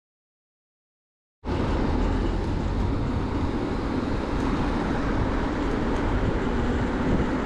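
The sound cuts out completely for about the first second and a half, then returns as a steady rush of wind and road noise from a bike being ridden.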